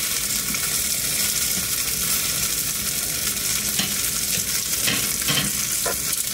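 Salmon patties frying in a cast-iron skillet with a steady sizzle. A few short clicks and scrapes of a metal spatula and tongs against the pan come near the end as the patties are flipped.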